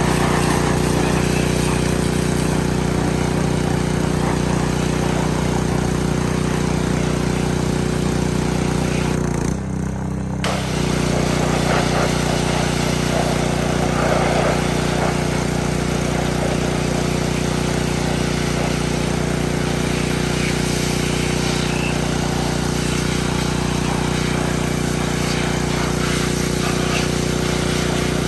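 Pressure washer motor running steadily while its water jet hisses, rinsing oven cleaner off an engine. About ten seconds in the sound dips briefly and the motor's tone shifts, then carries on as before.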